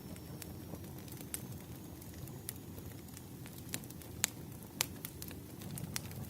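Wood campfire burning and crackling: irregular sharp pops and snaps from the burning logs, a few louder ones around four and five seconds in, over a steady low rumble of the flames.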